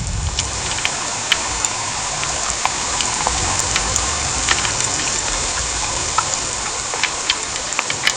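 Heavy downpour: a steady rain hiss with many sharp drop impacts clicking several times a second, over a low rumble.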